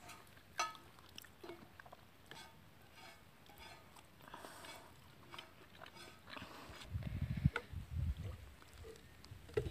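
Close-up chewing and eating sounds, small wet mouth clicks and smacks as chicken liver fry is eaten by hand. About seven seconds in comes a run of louder low, dull thumps.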